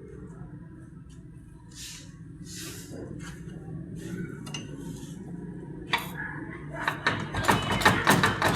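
Metal tools clinking and tapping on metal while a threaded bush is fitted into the spark plug hole of a Honda CD 70 cylinder head, scattered at first and then a quick run of sharp taps near the end, which is the loudest part. A steady low hum runs underneath.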